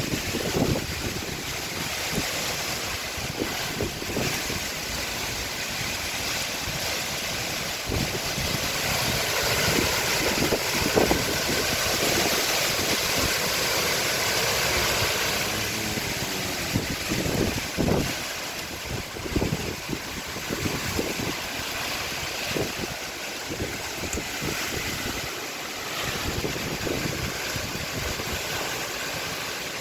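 Tropical-cyclone wind blowing hard and steadily, its rushing swelling and easing in long gusts, with the wind buffeting the microphone in low thumps throughout.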